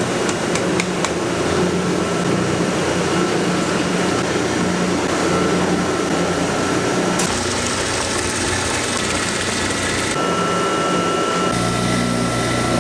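Steady whirring of running machinery, with a few faint steady tones; the sound changes abruptly three times, about 7, 10 and 11.5 seconds in.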